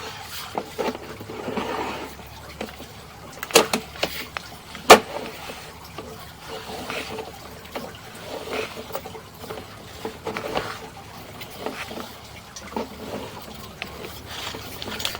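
Sewer inspection camera and its push cable being pulled back out of the drain line: irregular scraping, rattling and knocks, with two sharp knocks a little over a second apart near the middle.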